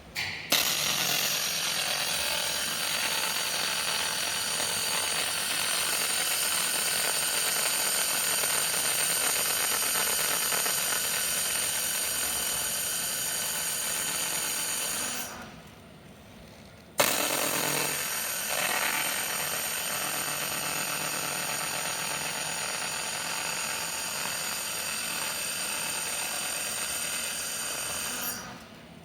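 Robotic laser welder running two long welds: a steady hiss with a thin high whine. Each starts suddenly with a snap, the first lasting about fifteen seconds and the second about twelve, with a short pause between them.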